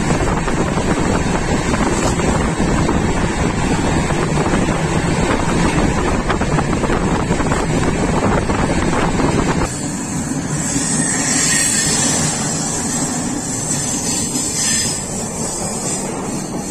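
Moving train's running noise: a loud, steady rumble and rush with wind buffeting the microphone. About ten seconds in it changes abruptly to a quieter, thinner rush with more hiss.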